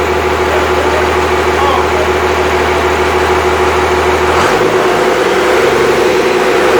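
Freshly rebuilt Cummins 5.9L 12-valve inline-six diesel running steadily. Its note changes suddenly about four and a half seconds in.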